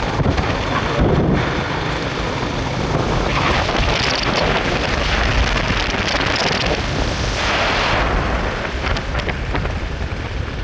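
Wind buffeting the microphone: a steady rumbling hiss that grows stronger for a few seconds in the middle.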